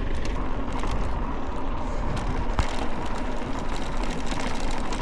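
A vehicle on the move: its engine runs steadily under a constant rumble of road and wind noise.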